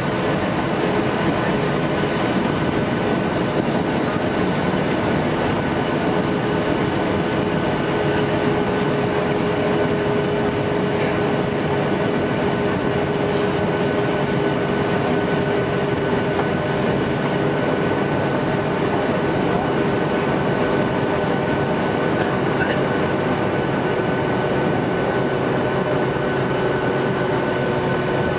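Cabin noise of a Boeing 757-200 rolling on the ground after landing: a steady rumble with engine whine tones that drift slowly lower.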